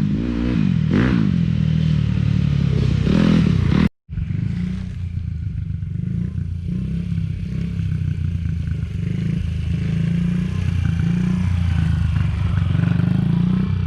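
Dirt bike engine revving up and down, then cutting out abruptly about four seconds in. It comes back running at a steady pitch.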